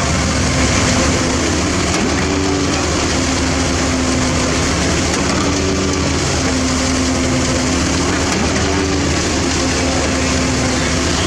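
Heavy diesel construction machinery running steadily, with a droning tone that comes and goes and shifts in pitch as the engine load changes.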